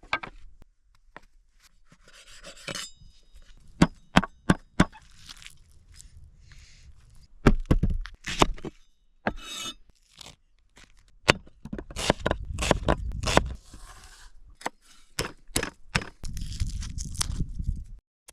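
Camp gear being handled: a series of sharp knocks and clicks mixed with scraping and crunching, and a short metallic clink that rings briefly about three seconds in.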